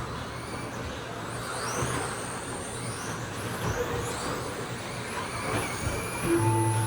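Electric RC stadium trucks with 13.5-turn brushless motors racing, their motors whining higher and lower as they accelerate and brake, over a steady low hum. A short steady tone comes in shortly before the end.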